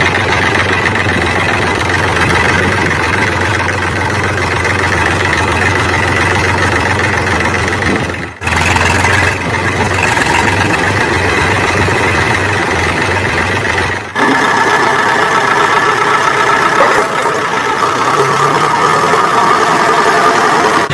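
An engine running steadily, broken by two abrupt cuts, about 8 and 14 seconds in. After the second cut it sounds different, with less low hum.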